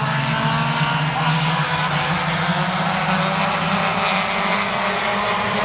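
Several stock car engines running at speed around an oval track, a steady drone of overlapping engine notes that slowly rise and fall in pitch.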